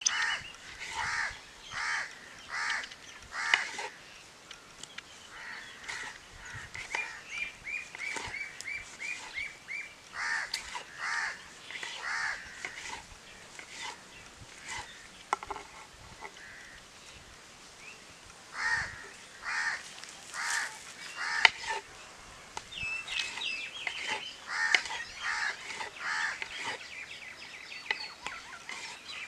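Birds calling: one bird gives runs of four to six loud calls at about two a second, repeated four times, and about a quarter of the way in another gives a quicker run of short, higher chirps.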